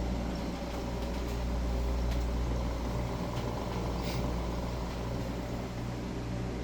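Samsung CF-1148D commercial freezer running after repair: its newly replaced compressor and fan motors give a steady low hum, with a few faint ticks.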